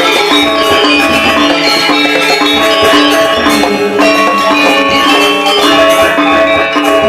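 Balinese gamelan ensemble playing a tabuh kreasi: bronze metallophones ringing in dense, fast-moving figuration, with low strokes sounding underneath.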